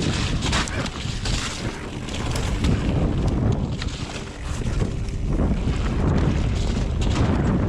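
Wind buffeting the microphone while a mountain bike's tyres rumble over rough trail, with scattered clicks and rattles from the bike.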